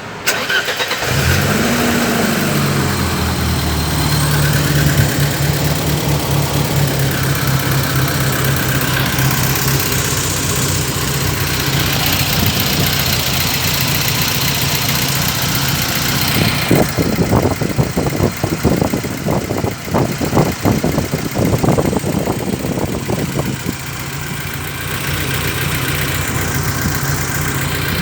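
BMW car engine starting: it catches about a second in, flares up and settles within a few seconds into a steady idle. Midway there is a spell of several seconds of irregular rapid clatter over the idle, after which it idles steadily again.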